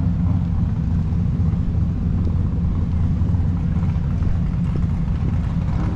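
Car engine running at a steady speed: a constant low drone that holds level throughout.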